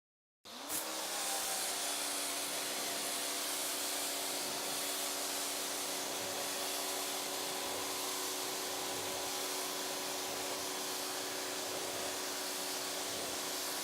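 A pressure washer starts about half a second in, its motor rising briefly in pitch and then running with a steady hum, while the snow foam lance sprays with a steady strong hiss.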